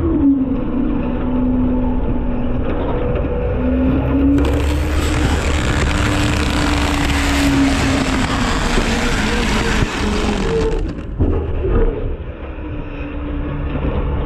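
Front-load garbage truck's engine and hydraulics running, the engine note rising and falling as it works. A loud rushing, hissing noise runs through the middle of the stretch and cuts off sharply about eleven seconds in.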